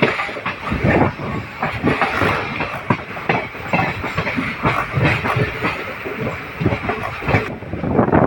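Passenger train running along the track, its wheels clattering over the rail joints with a continuous rumble and irregular knocks.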